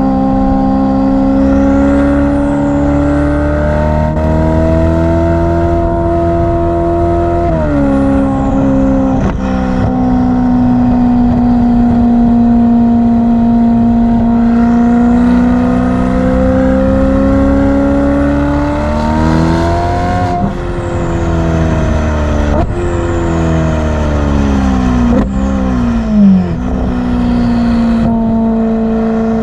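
Ferrari F8's twin-turbo V8 running through a Novitec sports exhaust under way. The revs climb and fall with sudden drops at upshifts, about a third of the way in and again about two-thirds in. Near the end the revs fall away in steps, with one short loud pop, then settle to a steady cruise.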